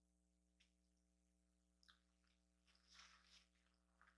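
Near silence with faint mouth sounds of chewing a chorizo breakfast burrito: a few soft wet smacks and clicks, the strongest about three seconds in.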